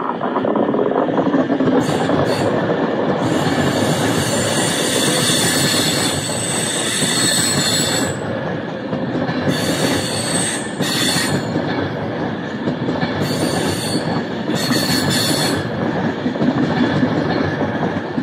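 Avanti West Coast Class 390 Pendolino electric train running past along the platform: a steady rumble of wheels on rail, with high-pitched wheel squeal coming and going in several spells.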